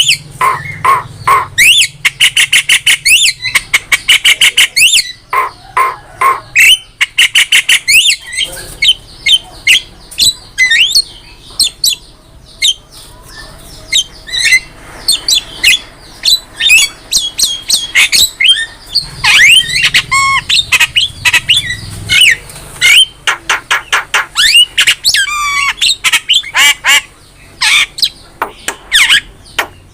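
Javan myna (jalak kebo) in full song: a fast, varied run of harsh squawks, rapid rattling clicks and sliding whistled notes, in bursts with brief pauses and a quieter spell partway through.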